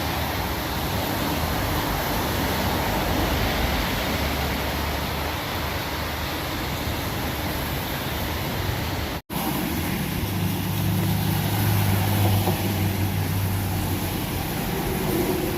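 Steady hiss of heavy rain mixed with traffic noise on a wet road. A brief dropout about nine seconds in, after which a vehicle's low engine hum grows louder for a few seconds.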